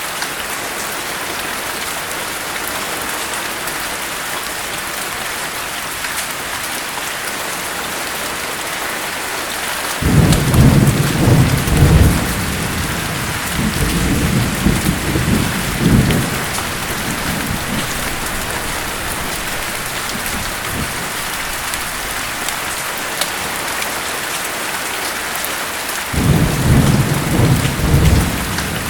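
Steady rain hissing, with rolling thunder twice. The first roll starts suddenly about ten seconds in and rumbles for several seconds; the second starts near the end.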